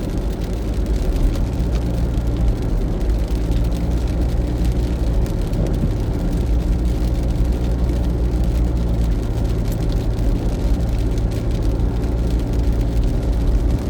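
Steady low rumble with a constant mechanical hum, with faint scattered ticks over it.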